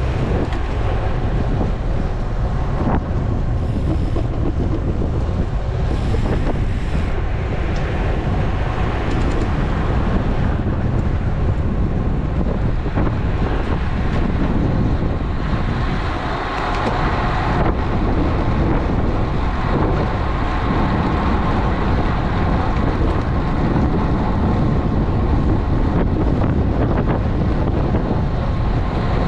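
Steady wind buffeting the action camera's microphone while riding a road bike at speed, heaviest in the low end.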